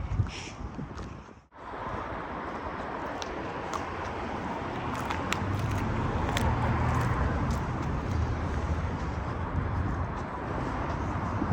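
Steady city-street traffic noise, swelling for a few seconds in the middle as a car passes, with a brief dropout about a second and a half in.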